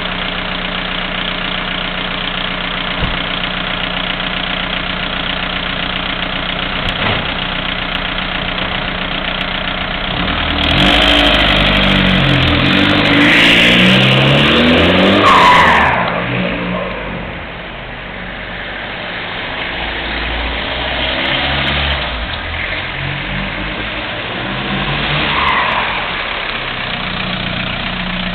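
VW Bora running through a straight-through exhaust: idling steadily, then revved up for about five seconds around ten seconds in, dropping back, and brought up more slowly again around twenty seconds in before settling back to idle.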